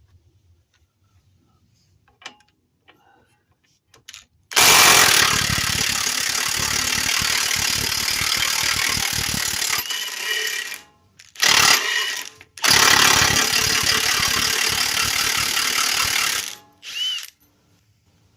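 Impact wrench hammering the 21 mm bottom bolt loose and out. It runs in three bursts, a long one starting about four and a half seconds in, a short one, then another long one, with a brief blip near the end, after a few light clicks of tool handling.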